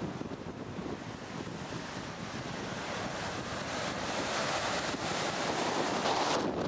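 Heavy storm surf and strong wind buffeting the microphone, swelling louder over the last few seconds before cutting off suddenly.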